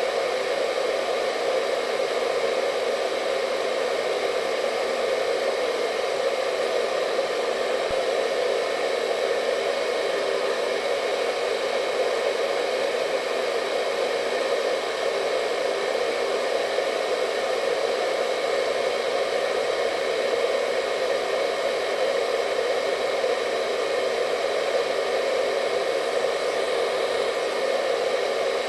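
Hair dryer running steadily: an even blowing whoosh with a faint motor whine, unchanging throughout.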